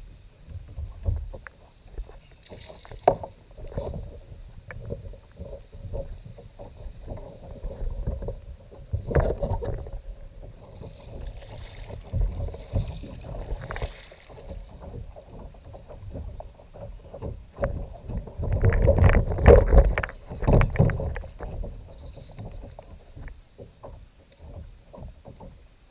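A kayak on the water: water splashing and sloshing against the hull, with scattered knocks and bumps. It grows loudest for a few seconds about two-thirds of the way through.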